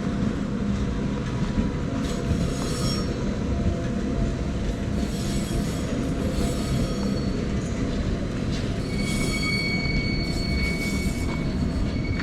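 Gornergrat Railway electric cog-railway train running past on its rails with a steady loud rumble. A high, steady wheel squeal sets in about nine seconds in.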